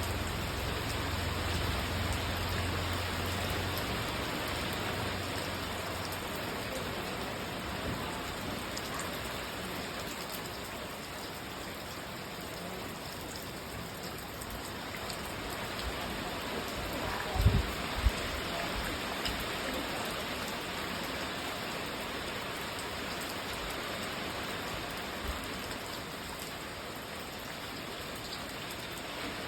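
Steady rain falling and pattering on surfaces. Two low thumps about half a second apart, a little past halfway through, and a low hum in the first few seconds.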